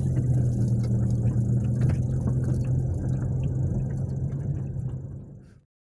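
An engine running at a steady speed, with a low even hum that fades out near the end.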